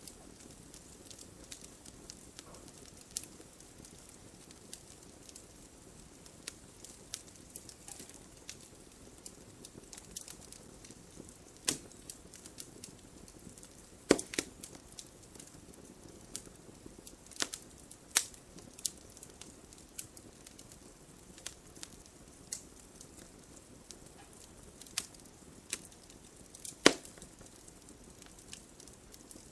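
Campfire burning: wood crackling with a soft steady hiss under irregular sharp pops and snaps, two louder pops standing out about halfway through and near the end.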